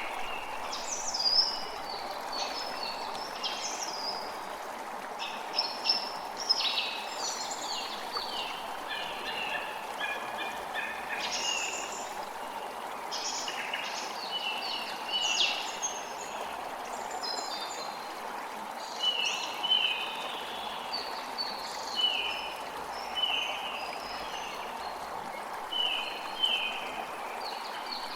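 Creek water running steadily, with several birds singing and chirping over it; in the last third one bird repeats a short down-slurred note every second or two.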